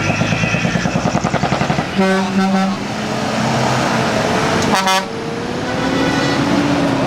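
Big trucks driving off with their engines running and their horns sounding: one horn held for under a second about two seconds in, then a short horn blast near five seconds. Smooth sliding tones follow near the end.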